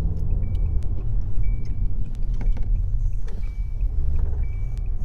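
Steady low rumble of a car's engine and road noise inside the moving car's cabin, with a short high beep repeating about once a second.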